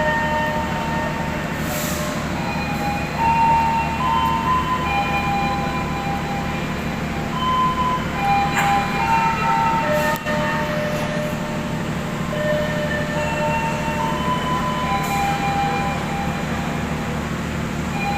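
Diesel locomotive idling steadily at the head of a waiting passenger train, a constant low engine hum. A run of held higher tones steps up and down in pitch over it.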